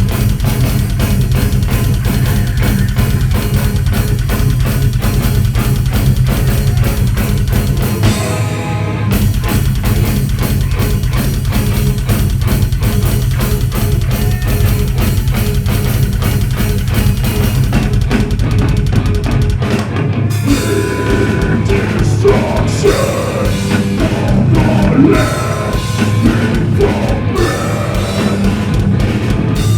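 Heavy metal band playing live: distorted guitars, bass and fast drumming. The low end drops out briefly about eight seconds in, and the part changes about twenty seconds in.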